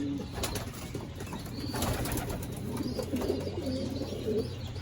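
Racing pigeons cooing in a loft: low, wavering coos, thickest in the second half, with a couple of sharp clicks or knocks early on.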